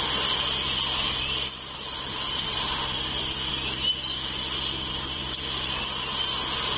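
Steady outdoor ambience from a nest camera's microphone: a dense high chorus with small chirps over a low, steady electrical hum.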